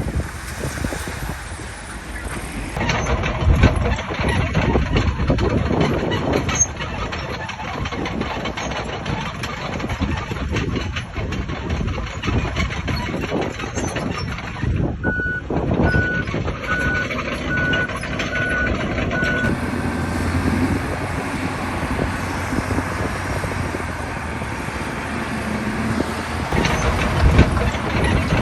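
Bulldozer's diesel engine running steadily with a busy mechanical rattle. About halfway through, a reversing alarm sounds a run of about six even beeps.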